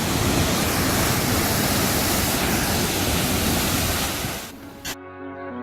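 Waterfall pouring with a steady, dense rushing noise. It cuts off about five seconds in, and background music begins.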